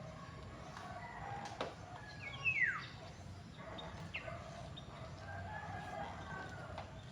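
Chickens calling: a short, sharp falling call about two and a half seconds in, the loudest sound, and a long drawn-out rooster crow in the second half, over a steady low hum.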